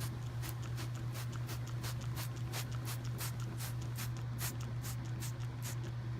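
Detailing a car's paintwork with a waterless spray and a microfiber towel: a quick, even run of short hissing, rubbing strokes, about three a second, over a steady low hum.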